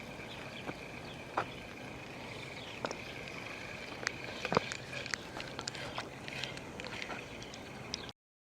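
Quiet outdoor ambience beside a pond with a faint steady high hum and scattered small clicks from fishing tackle being handled during a retrieve; the sound cuts off abruptly near the end.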